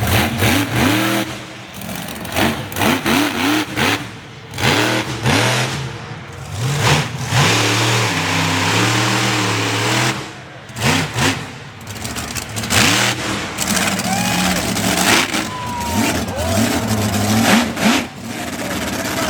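Monster truck engine revving hard over and over, its pitch surging up and dropping back every second or two, with short drops in level between bursts of throttle.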